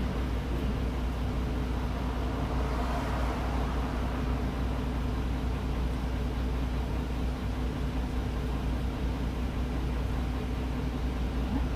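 Route bus under way, heard from inside the cabin: a steady low engine drone under an even rush of road noise, with a brief swell of hiss about three seconds in.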